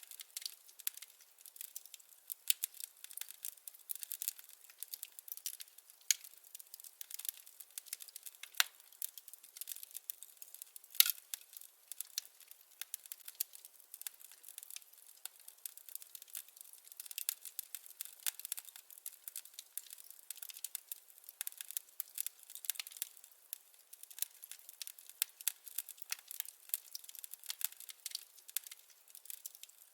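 Firewood burning in a fireplace, crackling with a dense run of small pops and snaps, and a couple of louder pops about nine and eleven seconds in.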